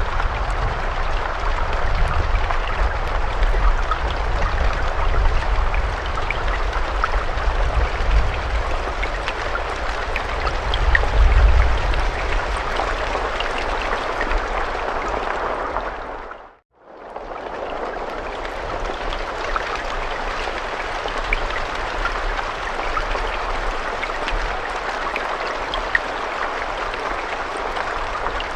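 Steady rain with scattered drop ticks over a deep low rumble. About two thirds of the way in, the sound fades out to silence for a moment and fades back in, and the rumble is weaker afterwards.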